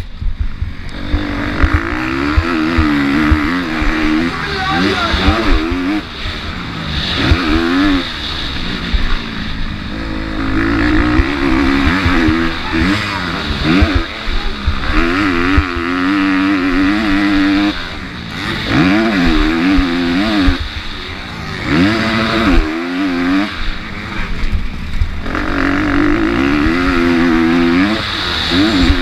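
MX2 motocross bike's engine at race pace, its pitch climbing hard and dropping back over and over as it accelerates through the gears and slows for corners, with a heavy low rumble underneath.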